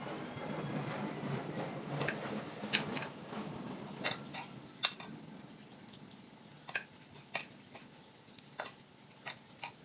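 Metal utensil clinking and scraping against a bowl while noodles are mixed. A busy stirring rustle with clinks for the first few seconds, then sparser single sharp clinks that grow quieter.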